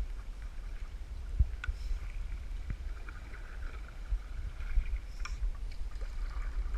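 Canoe under way on a river: a steady low rumble of wind on the microphone, with a few light knocks against the hull.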